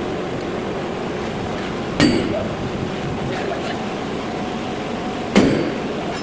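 Two sharp metal-on-metal clanks, about three and a half seconds apart, each ringing briefly, over a steady workshop noise.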